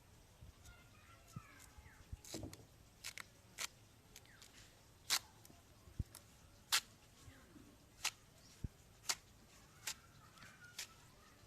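Knife cutting elephant foot yam (ol): a series of sharp, separate cuts about once a second, irregular in spacing.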